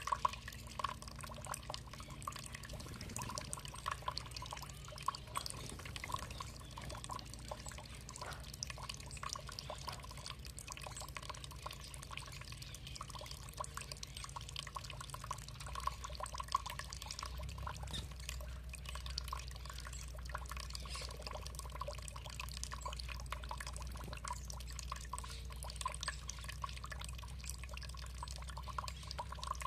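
Water trickling and dripping, a steady run of many small drips and splashes over a flowing wash. A low rumble sits underneath and grows a little stronger past the middle.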